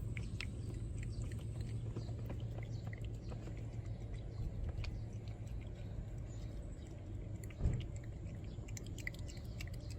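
A cat licking and smacking at a Churu paste treat, a stream of small wet mouth and tongue clicks. One dull bump about three quarters of the way through.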